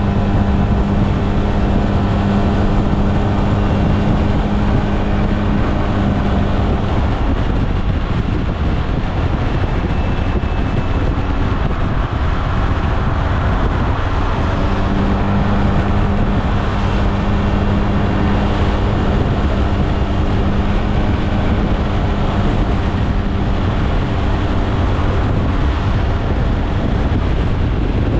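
SYM Maxsym TL 508 maxi-scooter engine running at a steady speed while riding, with wind rushing over the microphone. The engine's tone drops away about a quarter of the way in and comes back about halfway through.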